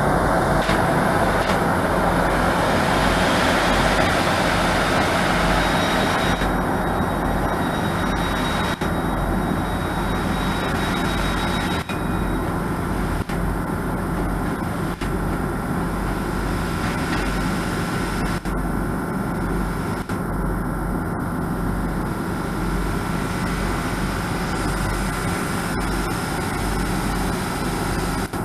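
A train's engine running steadily with a low hum, with a faint high whine over it for the first several seconds.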